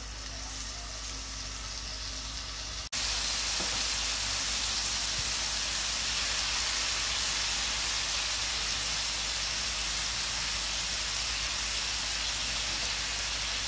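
Marinated chicken pieces sizzling in hot oil in a frying pan as they are laid in; a steady hiss that jumps louder about three seconds in.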